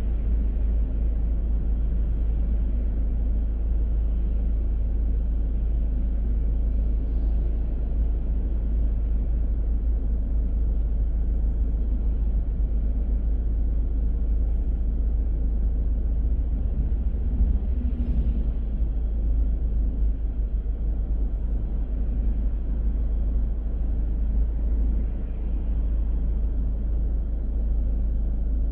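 A car driving along city streets: a steady low rumble of engine and road noise, with tyre hiss above it.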